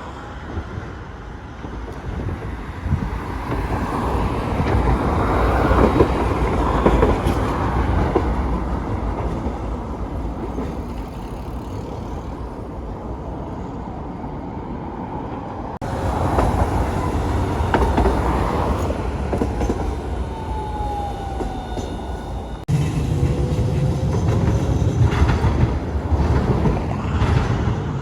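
Railway trains running on the track with a steady rumbling run. The sound changes abruptly about halfway through and again near the end, and a faint gliding whine is heard shortly before the second change.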